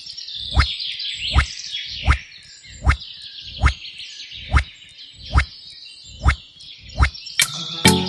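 Background soundtrack: a dense chorus of high chirping, like a frog or insect chorus, over a low thump repeating about every 0.8 seconds. Music with a melody comes in about seven seconds in.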